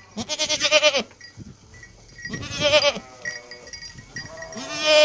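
An animal calling three times, each a long wavering call of under a second, with faint short ringing tones between the calls.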